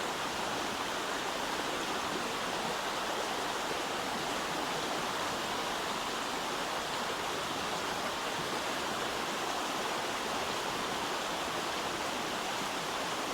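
River flowing past: a steady, even rush of moving water.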